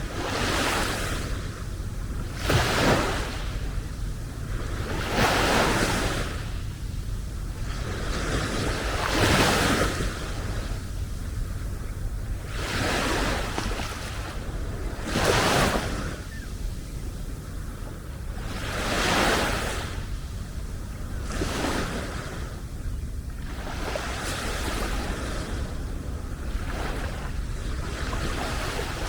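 Small waves breaking and washing up on a sandy beach, a new wash every two to four seconds, over a steady low rumble of wind on the microphone.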